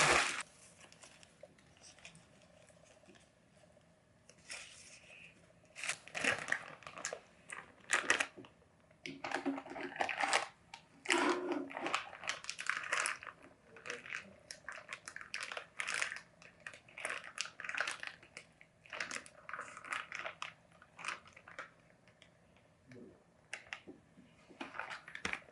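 Crinkling and rustling of packaging being handled, in irregular short bursts with pauses between them.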